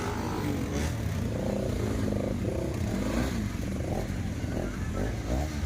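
Motorcycle engine running steadily, a low continuous rumble, with indistinct voices talking over it.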